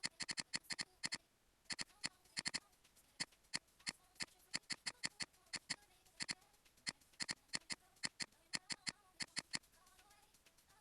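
Computer mouse clicking, faint, sharp and irregular, a few clicks a second, often in quick pairs like double-clicks, with a short pause about a second and a half in.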